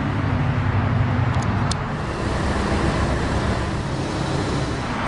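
Lamborghini Gallardo LP570-4 Superleggera's V10 engine running steadily just after start-up, a few faint clicks about a second and a half in.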